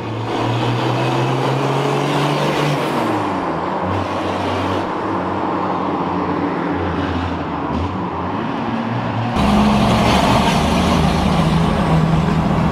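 Turbo diesel engine of a 60 Series Land Cruiser under way, its note rising and falling with the revs. About nine seconds in, the electronic exhaust cutout opens and the exhaust turns suddenly louder and deeper: stupidly loud, dumping straight out of the 3-inch pipe.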